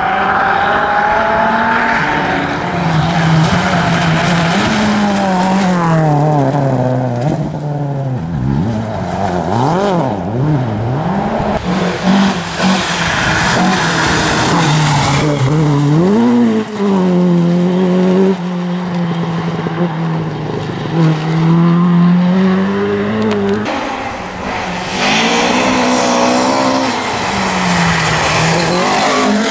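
Rally car engines revving hard and dropping back again and again as they are driven flat out through the gears, with a few abrupt changes from one car to the next. There is some tyre noise on a loose stage surface.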